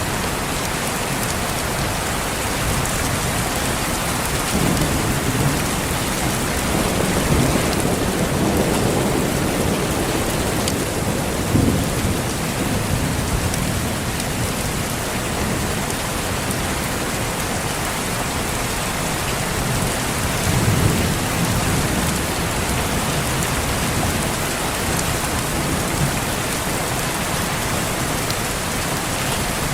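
Steady heavy rain falling, with low rolls of thunder swelling twice, from about four seconds in and again past twenty seconds.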